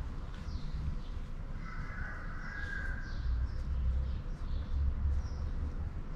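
Birds calling over a steady low background rumble, with short high calls throughout and one longer call about two seconds in.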